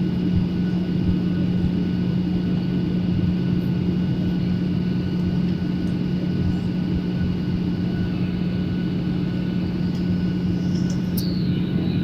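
Steady drone of an airliner's engines and airflow heard inside the passenger cabin in flight, with a constant low hum tone running through it. A single sharp click comes near the end.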